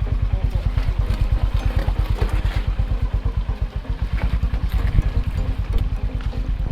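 Single-cylinder motorcycle engine running at low revs with a steady, even thumping beat, with a few short knocks and rattles over it.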